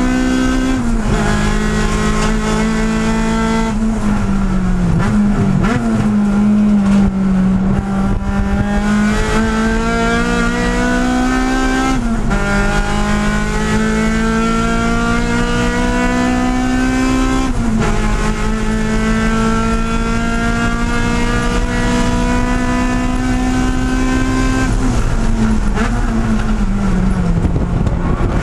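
Race car engine heard from inside the cabin under hard acceleration. Its pitch climbs steadily through each gear and drops sharply at every upshift. Near the end it falls away as the car slows for a corner.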